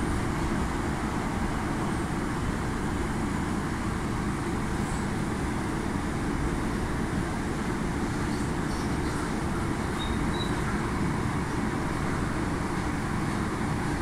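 Steady rumble of a train in motion, heard from inside the carriage, with most of its sound low and even throughout.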